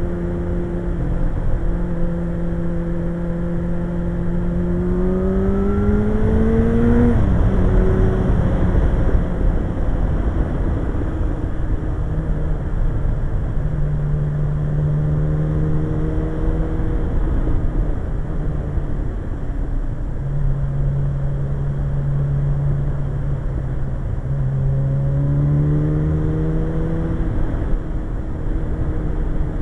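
Suzuki GSX-R 1100's inline-four engine running under way at a steady cruise, heard over a constant rush of wind and road noise. Its pitch climbs as it accelerates about five seconds in, drops suddenly at a gear change about seven seconds in, and climbs again near the end.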